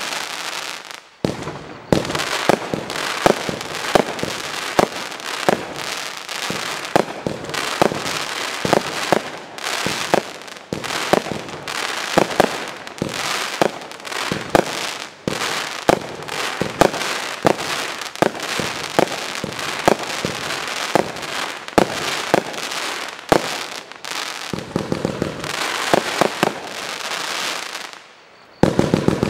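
Zena 'Doppelblitz' 100-shot fireworks cake firing in rapid succession: sharp launch thumps and bursts several times a second, with crackling from the bursting stars in between. Firing dips briefly about a second in and again just before the end, then resumes.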